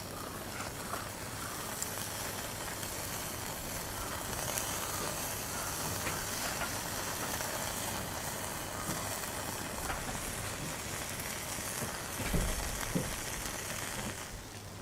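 Food sizzling steadily in hot oil or on a pan over a charcoal fire, a continuous hiss, with two dull knocks near the end.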